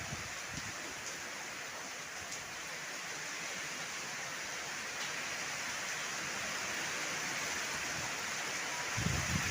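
Heavy rain falling as a steady hiss that slowly grows louder; near the end, gusts of strong wind buffet the microphone with low rumbles.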